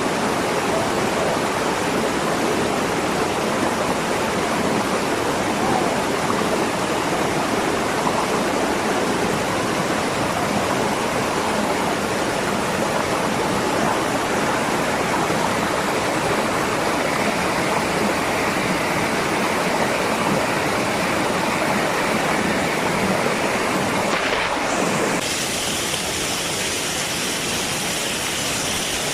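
Waterfall: water rushing with a steady, even roar. About twenty-five seconds in the sound changes abruptly, becoming slightly quieter and thinner.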